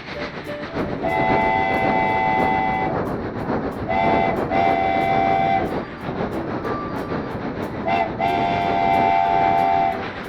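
Train sounds: a steady rail rumble with faint regular clicks, and a multi-tone train whistle blown three times. The first is one long blast about a second in, then a short and a long blast about four seconds in, and again about eight seconds in.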